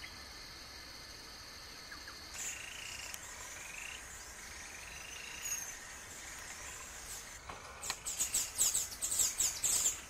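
Wild songbirds calling: a few short, gliding notes from about two seconds in, then a fast run of loud, sharp chirps over the last two seconds.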